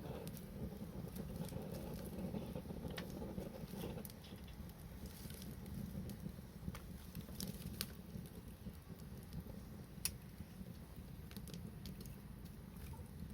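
Wood fire burning, with a steady low rumble and scattered sharp crackles and pops, the sharpest about ten seconds in.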